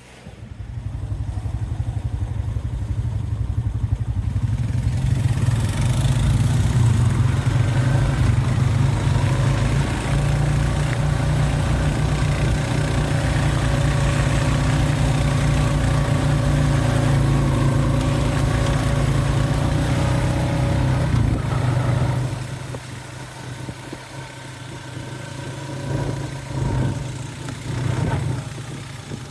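A vehicle engine running steadily while driving, building up over the first couple of seconds. About two-thirds of the way through it drops to a lower level, then surges briefly twice near the end.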